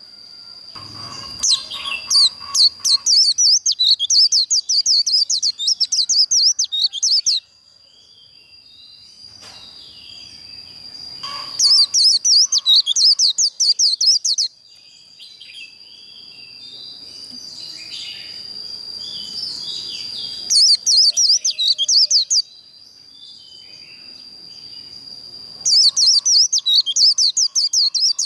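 White-eye (vành khuyên) singing its rapid, rolling 'líu' song in four bouts of fast high chirping, over a thin steady high tone that never stops.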